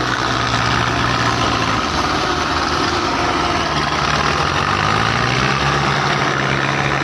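Diesel engines of Belarus 510 tractors running steadily, a continuous low engine drone.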